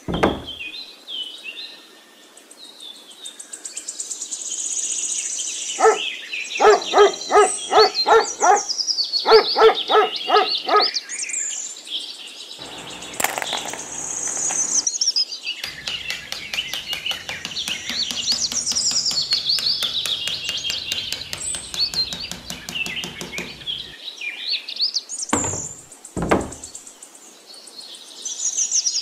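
Birds chirping and singing, with many quick high calls that slide up and down in pitch. About six seconds in, a run of short, rapidly repeated pitched calls comes in and lasts about five seconds.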